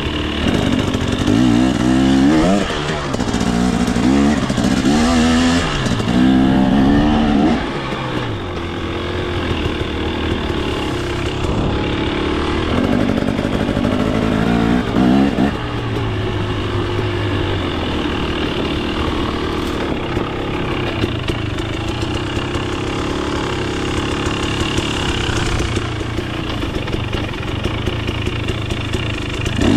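KTM 250 XC single-cylinder two-stroke dirt bike engine revved in about four quick bursts over the first several seconds, then running at low, steady revs with one more rev about halfway through.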